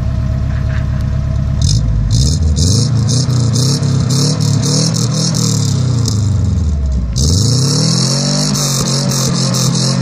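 VAZ 2106 four-cylinder engine running through a sport exhaust tuned for a Subaru-like sound: it idles, is revved up about two seconds in and falls back, then is revved again about seven seconds in and held high.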